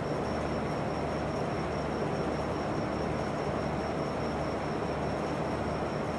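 Steady room noise, an even rumbling hiss with a low hum and a faint constant high-pitched whine.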